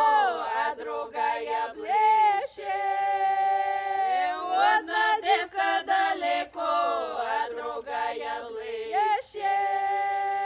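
A folk choir singing a cappella in several voice parts, in a village folk style. The phrases are drawn out on long held chords, and the last line closes on a sustained final chord over the last second or so.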